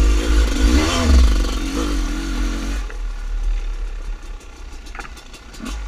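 Two-stroke dirt bike engine revving, its pitch rising and falling, for about three seconds, then dropping suddenly to a quieter low run.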